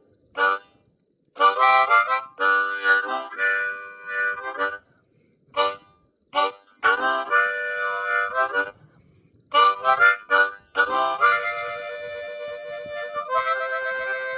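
Blues harmonica played solo in short, separate phrases with brief pauses between them, ending in a longer held passage.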